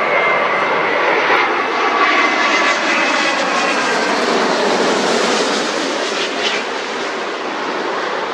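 Airliner's jet engines passing by: a steady loud rush with a whining tone that slowly falls in pitch as the aircraft goes past.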